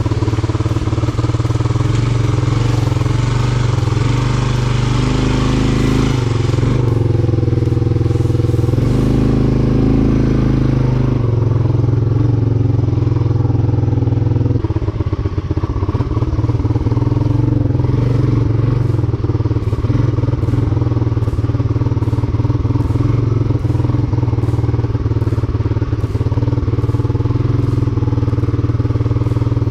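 A 1987 Honda TRX 250 quad's single-cylinder four-stroke engine running steadily, its speed changing a few times in the first dozen seconds and then holding. It is getting too much gas, which the owner says makes it reluctant to drop into gear.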